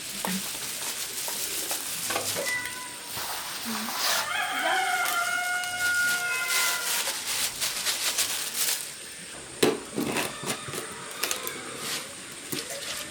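A rooster crowing once, a long call a few seconds in. Later, several sharp knocks and clatter of things being handled.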